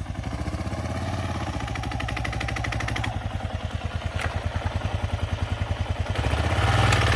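Single-cylinder dual-sport motorcycle engine running at low speed with an even pulsing beat, getting louder about six seconds in.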